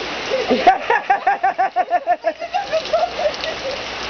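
Steady rain falling and splashing, with a quick run of high-pitched laughter about a second in, lasting around two seconds.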